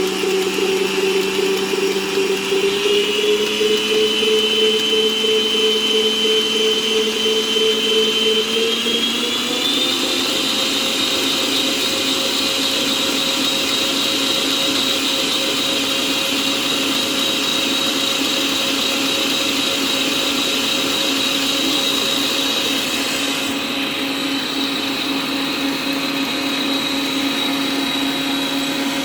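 Electric kitchen blender running steadily as it blends carrot cake batter, its motor whine stepping up in pitch twice in the first ten seconds, then holding steady.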